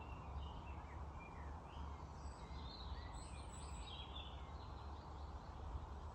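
Several songbirds chirping and singing in quick, high, overlapping notes, busiest around the middle and thinning near the end, over a steady low rumble.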